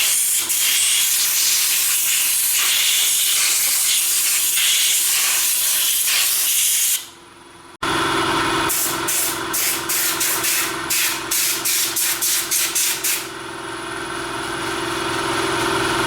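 A loud, steady spraying hiss, like air or spray from a pressurised nozzle, which stops about seven seconds in. After a short break it comes back as a string of short bursts, about two or three a second, then settles into a steady hiss again.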